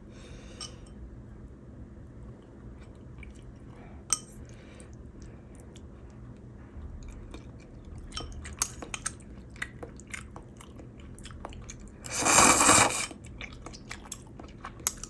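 A person eating ramen, with close-up chewing and crunching: scattered sharp clicks that grow frequent in the second half. About twelve seconds in comes one loud rush of noise lasting about a second.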